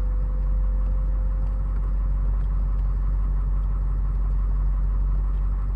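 Ford F-550's 6.7-litre Power Stroke V8 turbo-diesel idling, a steady low rumble heard from inside the cab.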